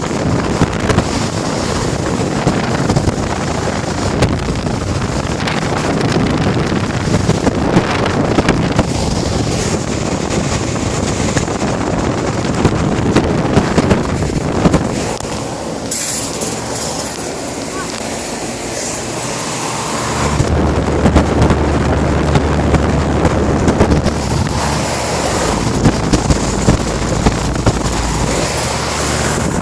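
Air conditioner units running, with heavy rushing air noise on the microphone. About twenty seconds in, a strong steady low hum sets in.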